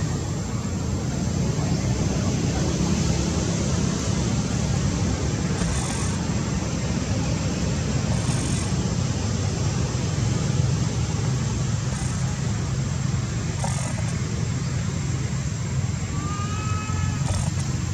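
Steady low rumbling noise, with a short rising call near the end.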